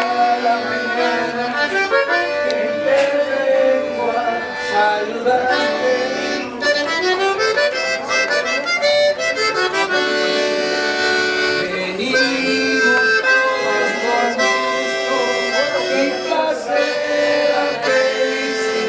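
Accordion music playing, held chords and melody notes changing one to the next, with a sliding run of notes about halfway through.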